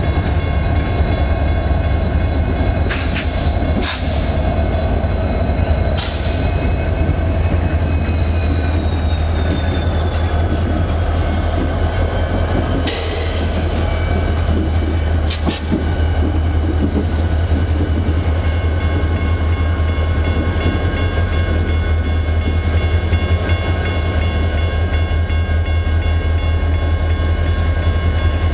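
Freight train rolling slowly past with a CN diesel locomotive's engine running as a steady low hum. Sharp metallic clanks come several times in the first half, and a faint high wheel squeal slides down in pitch partway through.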